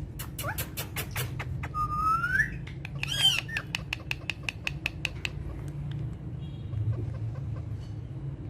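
Parrot calls: a curved whistle about two seconds in and a short squawk about a second later, among a run of sharp clicks that fades out after about five seconds.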